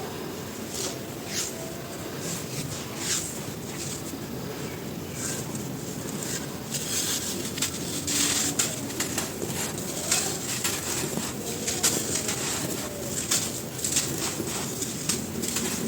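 Dry, dusty cylinders of crisp material crumbling and crunching under the fingers: a run of irregular sharp crackles that grows denser and louder about halfway through.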